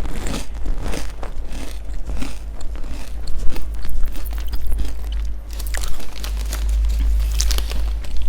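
Close-miked chewing of crunchy food, a run of sharp crunches and bites, over a steady low hum.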